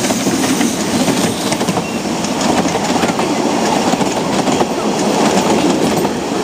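Narrow-gauge train carriages rolling past on the track: a steady rumble with many quick clicks from the wheels over the rails.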